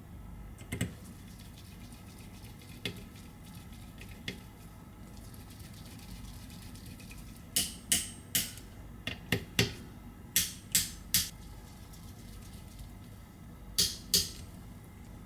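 Sharp little clicks and taps of precision tools and small parts as the Taptic Engine and speakers are fitted into an iPhone 11 frame. A few come scattered at first, then a quick run of about ten about halfway through, and two more near the end.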